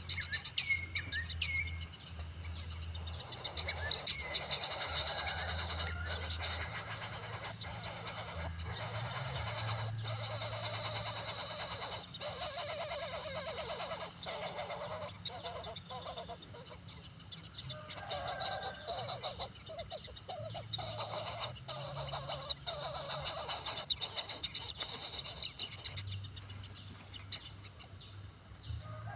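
Outdoor ambience: a steady high drone of insects, with short bird chirps near the start and scattered bird calls throughout.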